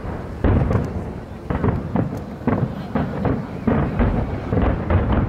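New Year fireworks display: aerial shells bursting in a rapid barrage, deep booms coming about twice a second.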